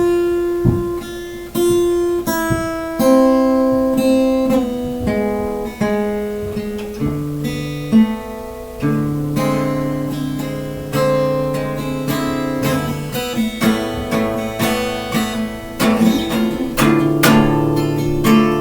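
Acoustic guitar played solo, plucked and strummed chords ringing out in a loose jam.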